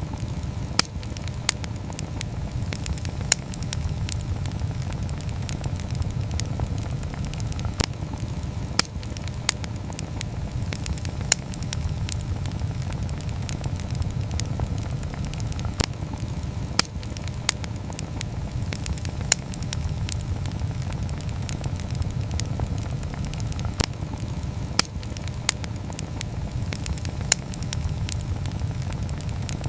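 Wood campfire burning: a steady low rush of flame with sharp crackles and pops, roughly one every second or two.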